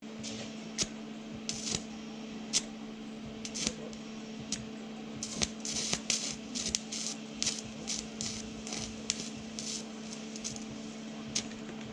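Stick welder arc burning on exhaust pipe: a steady hum with irregular sharp crackles and spitting throughout, starting and stopping abruptly as the arc is struck and broken.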